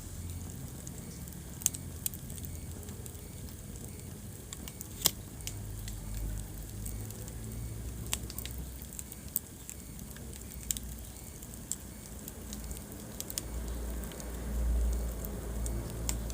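Wood fire burning in a fireplace with a low steady rumble, crackling and popping at irregular moments. The sharpest pop comes about five seconds in, and the rumble swells near the end.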